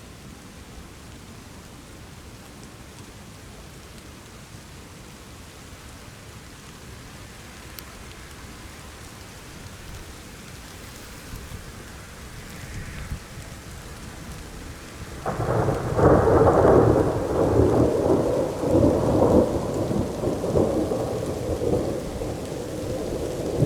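Steady rain hiss, then about two-thirds of the way through a loud roll of thunder breaks out and rumbles on, slowly easing off.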